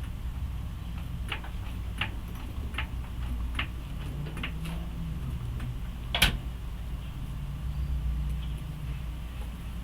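A series of light clicks, about one a second, over a steady low hum, with one sharper, louder click about six seconds in.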